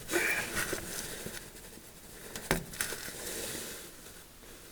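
Handling noises: faint rustling and scraping, with one sharp click about two and a half seconds in.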